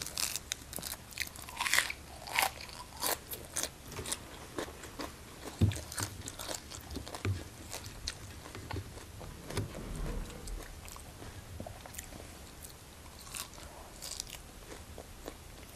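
Close-up crunching and chewing of raw choy sum (Chinese flowering cabbage) stems and flowers: a run of short, crisp crunches, thicker in the first half and sparser later.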